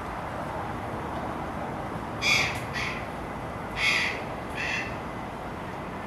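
A bird giving short harsh cawing calls in two pairs, each loud call followed by a softer one, over steady outdoor background noise.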